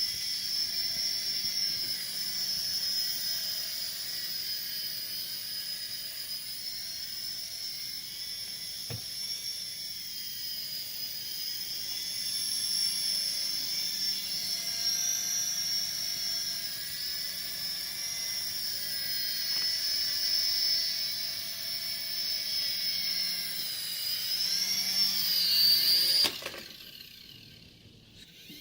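Toy RC helicopter's small electric motors and rotors whining high and steady in a hover, the pitch wavering a little as the throttle shifts. About 26 seconds in the whine drops in pitch and cuts out as the motors stop.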